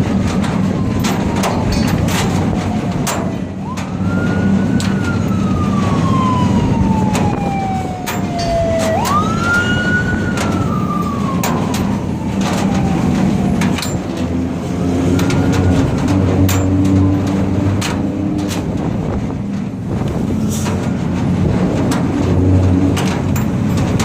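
A vehicle siren wailing over a running truck engine. The siren rises quickly and then falls slowly, three times in the first half, then once more faintly.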